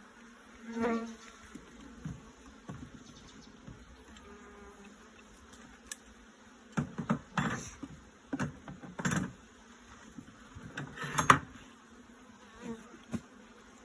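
Honey bees buzzing around an open hive, one flying close past about a second in. Several knocks and scrapes of wooden hive parts being handled follow in the second half, the loudest near the end.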